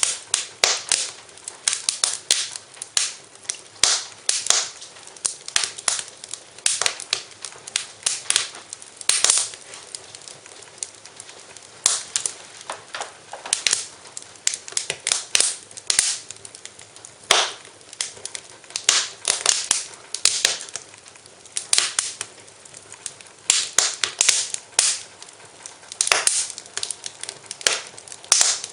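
Wood fire in a fireplace crackling, with irregular sharp pops and snaps coming several a second, in clusters, over a faint steady hiss.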